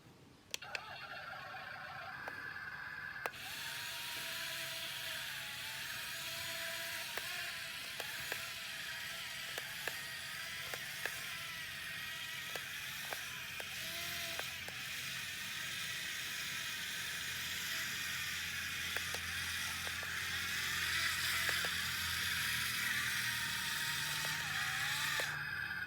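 Radio-controlled excavator's electric motors and hydraulic pump whirring, the whine dipping and recovering in pitch as the machine works under load, with scattered clicks from its moving parts. The whine cuts out briefly near the end.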